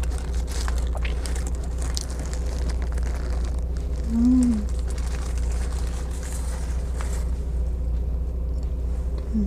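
Steady low hum of a car idling, heard from inside the cabin, under soft chewing and light clicks. A short closed-mouth 'mm' comes about four seconds in.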